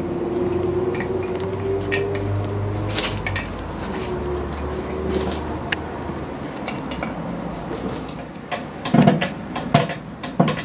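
Metal parts and tools clinking and knocking during work on front hub bearings. The clicks are scattered, with a run of louder knocks near the end, over a steady low hum.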